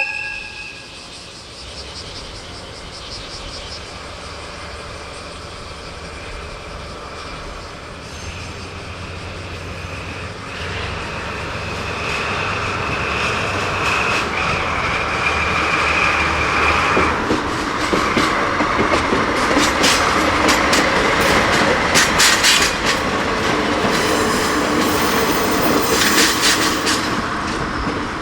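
A DD51 diesel-hydraulic locomotive drawing a train of Taki 1900 cement tank wagons past, growing louder: a low engine drone, a steady wheel or brake squeal through the middle, then a rhythmic clatter of wagon wheels over rail joints in the second half.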